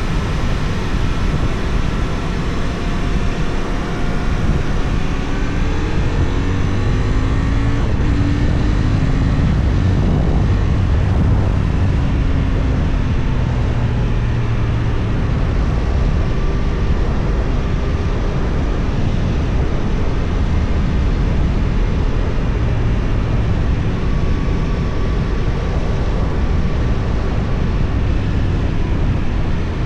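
Benelli Tornado 550's 554 cc parallel-twin engine running under way, heard under heavy wind rush. Its note climbs in pitch several times as the bike accelerates through the gears.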